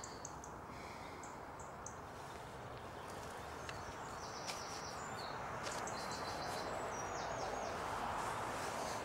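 A small songbird chirping in short, high, rapidly repeated phrases, a few early on and more through the second half, over a steady outdoor hiss.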